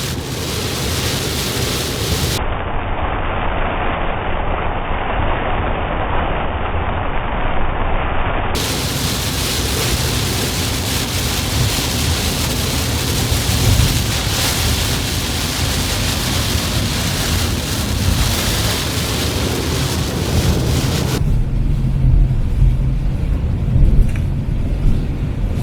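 Steady, loud rush of typhoon wind and rain with a rumbling low end, changing abruptly a few times as separate stretches are cut together.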